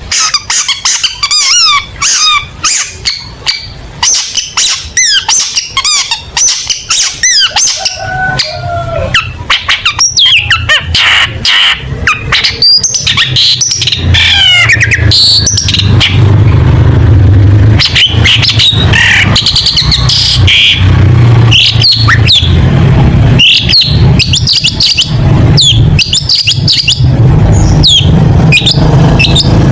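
Long-tailed shrike (cendet) singing a loud, rapid, varied song of sharp chirps, trills and quick volleys of notes, with hardly a pause. A low steady hum runs underneath from about eight seconds in.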